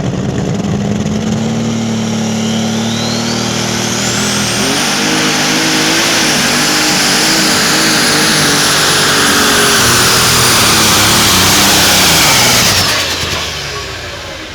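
Turbocharged diesel engine of a pulling vehicle at full power during a pull. A high turbo whine rises steeply over about two seconds and then holds while the engine note wavers. Near the end the engine backs off and the sound fades.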